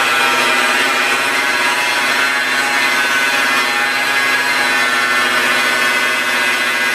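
Electric car polishing buffer running steadily at a constant speed, its pad working rubbing compound over the paint.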